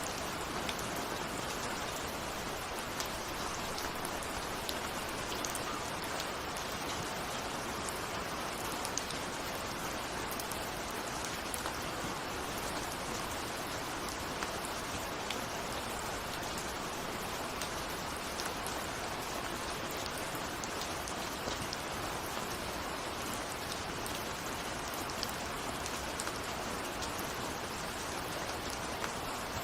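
Steady rain falling, an even hiss with scattered sharper drop ticks, the sound of raindrops on a window.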